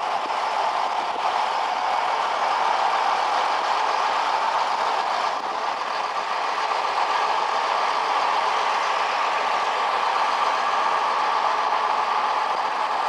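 A heritage train moving slowly out of the station, with a steady running engine noise heard from the carriage window.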